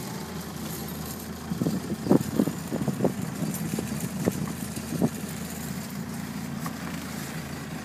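Land Rover Defender engine running steadily at low speed, heard from inside the cab, with a string of short knocks and rattles between about one and a half and five seconds in.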